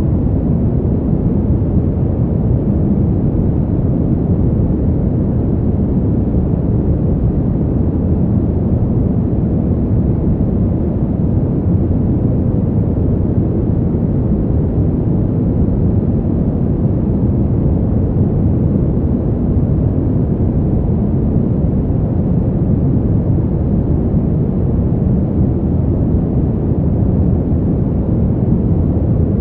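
Continuous deep rushing wind noise, even and unchanging, with no gusts, heavy in the low end.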